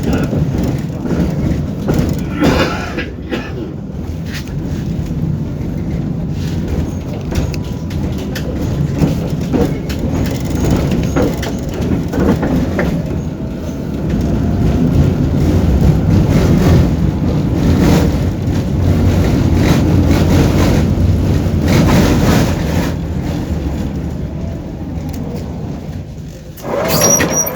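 Tram running along the track, heard from inside the car: a steady low rumble with scattered knocks, louder through the middle stretch. A brief, louder sound with a high tone near the end.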